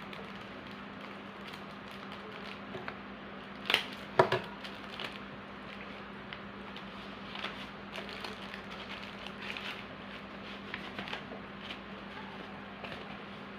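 Small clicks and rustles of handling and packing, with a sharper cluster of clicks about four seconds in, over a steady low electrical hum.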